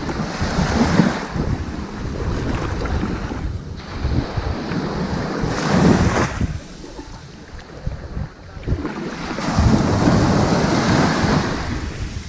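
Ocean waves breaking and washing up onto a sandy beach. Each wash swells and then fades, three times, with quieter lulls between.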